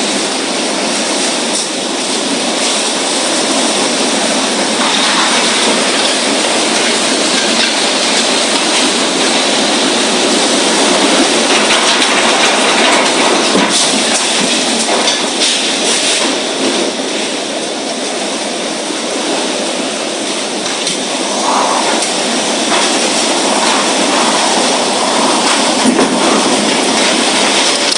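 Tropical storm of heavy rain and strong wind, a loud, steady rushing noise.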